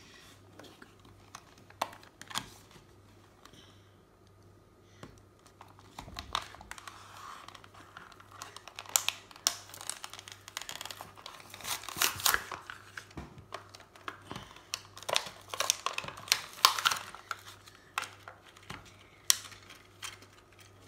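Toy packaging being opened by hand: crinkling and rustling with many sharp clicks and snaps, sparse at first and busier from about a third of the way in.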